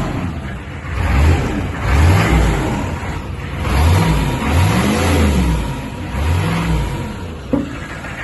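Chevrolet 6.5-litre turbo-diesel V8 idling and being revved several times, its pitch rising and falling with each blip of the throttle. A short sharp click comes near the end.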